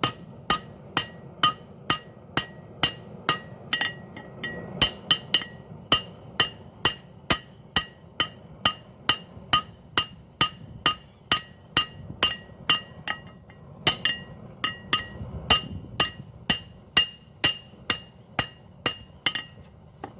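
Blacksmith's hammer striking high-carbon steel on an anvil to forge a knife blade: steady blows about two a second, each with a bright metallic ring. The hammering pauses briefly about four seconds in and again near fourteen seconds.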